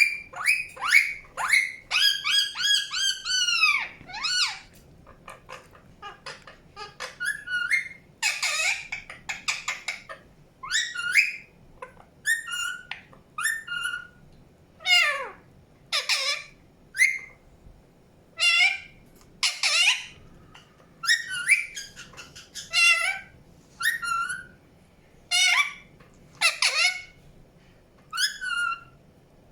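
Indian ringneck parakeet calling: short, shrill chirps and squawks, many gliding up or down in pitch, coming quickly in the first few seconds and then about one a second.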